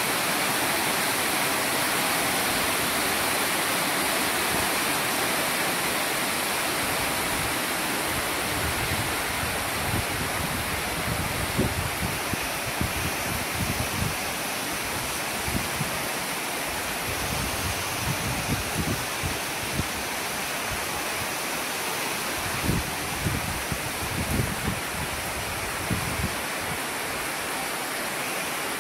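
Rain shower falling steadily, an even hiss. Through the second half come scattered short low thumps.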